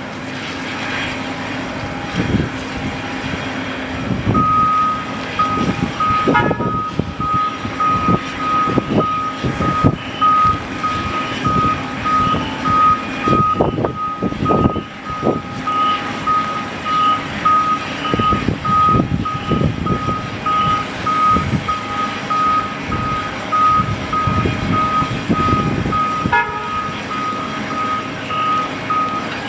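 A vehicle's reversing alarm beeping steadily at one pitch, starting about four seconds in, over gusts of wind buffeting the microphone.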